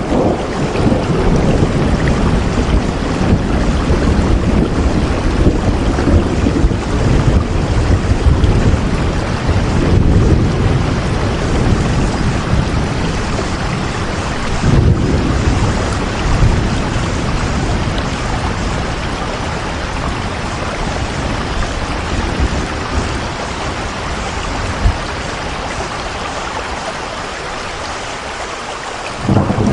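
Heavy rain falling steadily, with deep rumbling that eases off in the second half.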